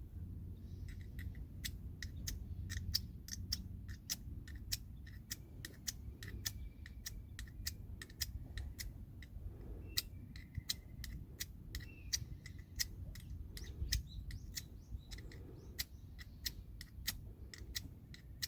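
Wood fire crackling with irregular sharp pops and snaps, a few a second, over a low rumble, with faint bird chirps behind.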